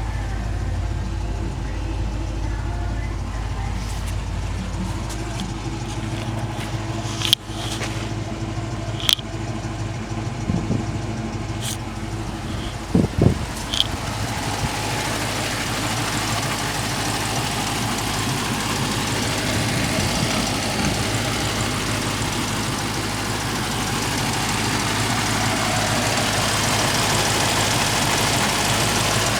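5.7-litre HEMI V8 from a 2023 Dodge Challenger running at a steady idle, with a few sharp clicks in the first half.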